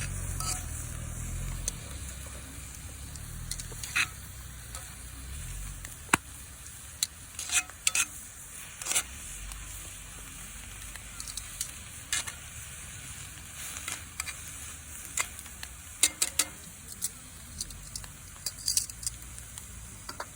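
Wood campfire crackling, with irregular sharp pops and snaps over a steady hiss. A low rumble fades out in the first two seconds.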